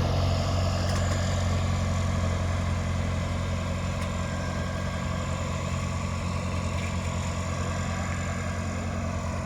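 Aircraft tow tractor's engine running steadily with a deep hum, getting slightly quieter as it pulls the jet away.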